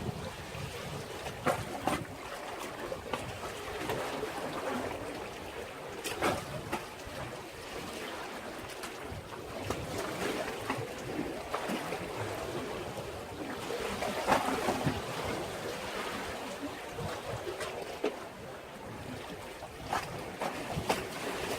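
Sea waves washing against a breakwater: a steady surging wash that swells and ebbs, with sharp splashes now and then.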